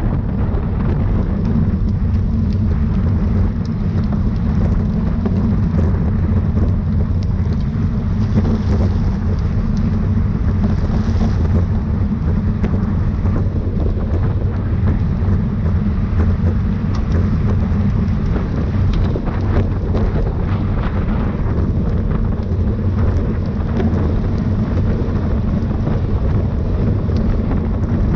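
Steady wind rumble on the microphone of a bike-mounted camera while riding at race speed.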